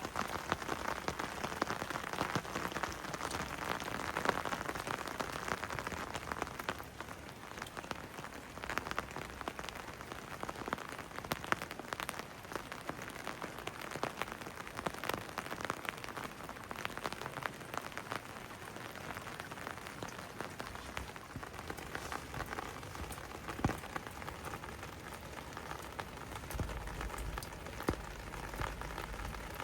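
Steady rain falling, with a dense patter of individual drops and a few louder drips standing out; a little heavier in the first few seconds.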